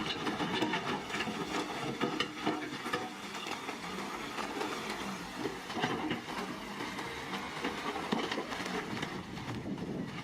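Heavy earthmoving machinery running: a diesel engine with frequent irregular metallic clanks and rattles.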